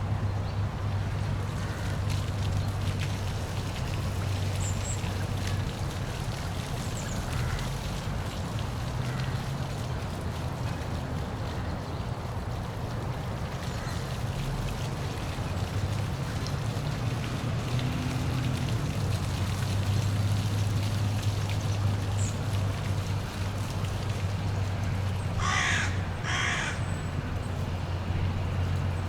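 Waterfall: a steady rush of falling water with a low rumble underneath. Two short, harsh bird calls come close together near the end.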